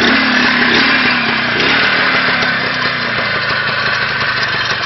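IZh Planeta 5 motorcycle's single-cylinder two-stroke engine running just after starting, its revs slowly dropping over the first few seconds and then holding steady.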